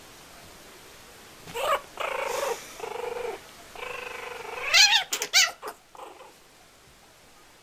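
Kitten growling in several drawn-out stretches of a low yowl, then rising into a harsh cry and spitting three or four sharp hisses about five seconds in: a defensive threat display.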